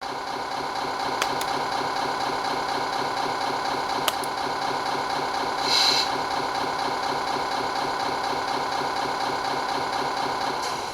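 Simulated Scania V8 engine sound from a 1:14 scale Tamiya RC truck's electronic sound unit, idling steadily. A short hiss comes about six seconds in, and two faint clicks come earlier.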